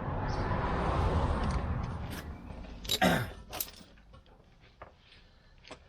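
Handling noise from work on a car's rear hub. A rough rustling hiss runs for about two seconds, then come a few sharp clicks and a knock around three seconds in, and it goes much quieter with a few faint ticks.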